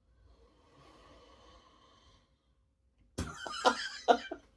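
A man's brief non-speech vocal outburst, a few quick loud pulses about three seconds in, after a faint breath.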